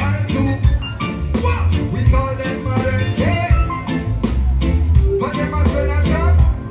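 Live reggae band music with a heavy bass line and a steady drum beat, and a voice singing over it.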